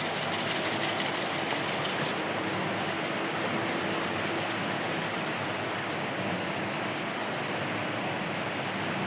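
Ventisol Power 70 cm three-blade 230 W wall fan running at top speed: a steady rush of air with a fast, even pulse from the blades. It is a little louder for the first two seconds, then eases slightly.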